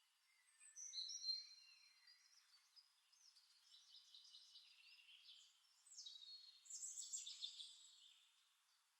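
Faint birdsong from a nature-ambience recording: a short phrase of high chirps about a second in, and a longer run of chirps from about six to seven and a half seconds.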